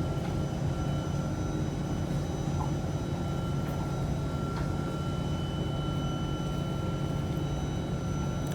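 Steady hum of an Alstom C830 metro train standing at a station with its doors open: air-conditioning and onboard equipment running, with a few faint steady high-pitched tones over a low hum.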